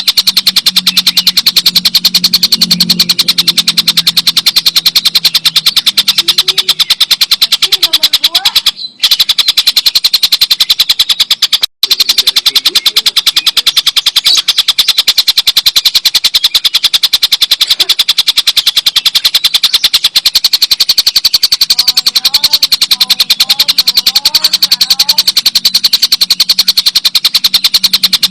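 Tengkek buto kingfisher giving its long, loud 'ngekek' call: a fast, even run of sharp repeated notes that goes on without a break, apart from two brief dropouts.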